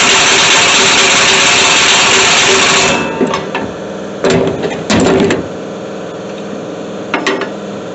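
A loud, steady rushing noise cuts off about three seconds in, leaving an engine idling, with a few short loud bursts of noise over it.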